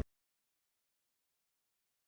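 Silence: the audio cuts off abruptly at the very start and the track is dead silent.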